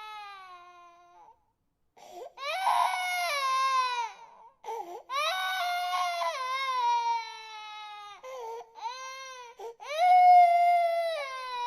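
Infant crying in long wailing cries, each falling in pitch, broken by short gasps for breath; a loud cry starts about ten seconds in.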